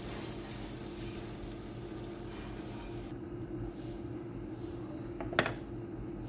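Food frying in a pan, a faint steady sizzle over a low hum, with one sharp clink of a utensil against the pan or dish about five seconds in.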